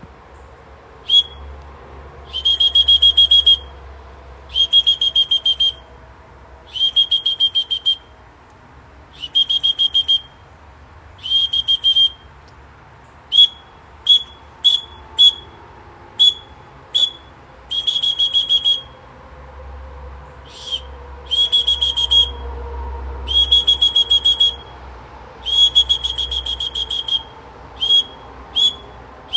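A bird-call whistle blown in repeated trilling blasts at one steady high pitch, imitating bird chirps. The longer trills last about a second each, with short single chirps scattered between them.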